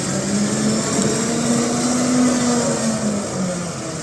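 A motor working under load, its pitch climbing over the first two seconds or so and then dropping back near the end.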